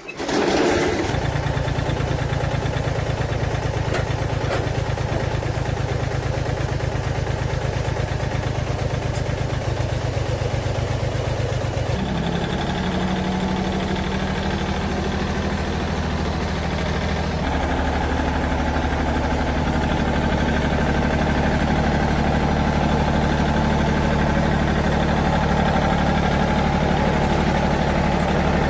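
An old tractor's diesel engine, just repaired after refusing to start, starts and then runs steadily; its note changes about twelve seconds in and again a few seconds later.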